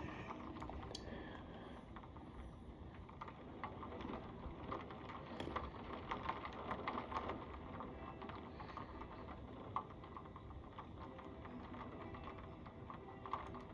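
Rain falling, heard as a soft steady hiss with irregular light taps of raindrops striking close by.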